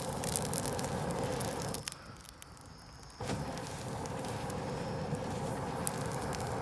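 Wood fire crackling, with a steady hiss and scattered sharp pops. It drops away abruptly about two seconds in and comes back just as suddenly about a second later.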